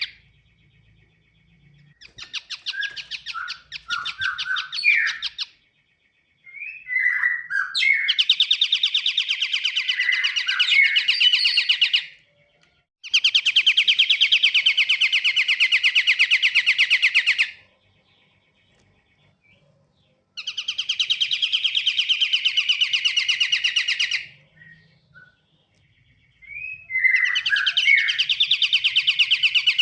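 Pied triller (kapasan kemiri) song played as a bird lure: fast, evenly pulsed trills, each lasting about four to five seconds, repeated with short pauses. Some bouts open with a few quick sweeping chirps.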